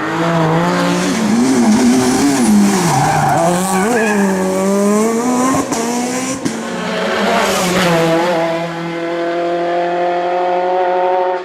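Rally car engine revving hard, its pitch climbing and dropping repeatedly through gear changes, with tyre and gravel noise. In the last couple of seconds the engine settles on one steady note.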